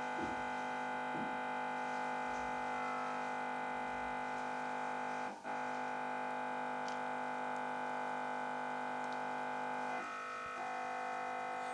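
Television giving a steady buzzing hum made of many tones, which appears when a DVB-T2 receiver is connected to it: interference picked up through the connection. The hum dips briefly about five seconds in.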